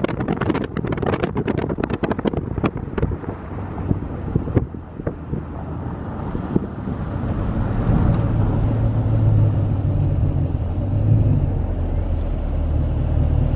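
A car on the move, its engine and road noise making a steady low drone that grows louder about eight seconds in. Irregular sharp crackles and clicks, likely wind or handling on the microphone, come in the first few seconds.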